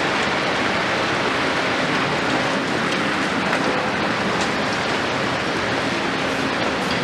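Steady hiss of heavy rain with the diesel engine of a large Volvo EC 700 demolition excavator running underneath as a low, even hum.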